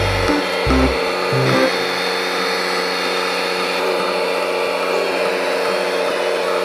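Small electric motor and plastic gearing of a toy RC excavator whirring steadily. Low bass pulses of background music sound in the first second and a half, then stop.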